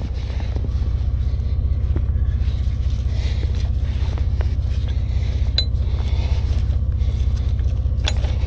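A vehicle engine running steadily at idle, a low even throb, with a few light clicks over it.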